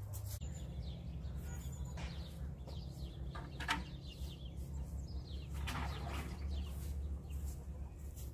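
Birds chirping outdoors in short, scattered calls, some falling in pitch, over a steady low hum; one call about halfway through is sharper and louder than the rest.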